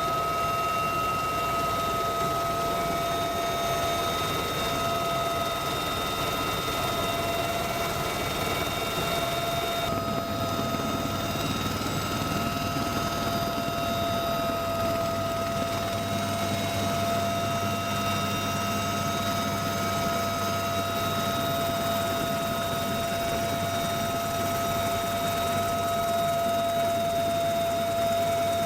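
Military helicopter running steadily, its turbine and rotor noise carrying a constant high whine.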